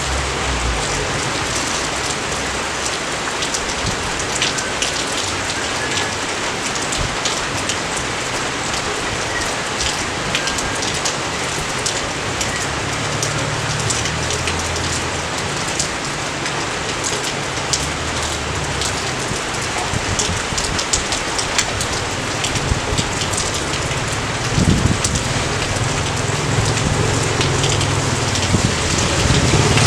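Steady rain falling, a continuous hiss with many single drops striking close by.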